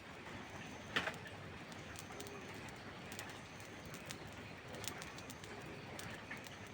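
Steady rain hiss with a wood fire crackling: scattered small clicks and one sharper pop about a second in. A bird coos faintly a couple of times behind it.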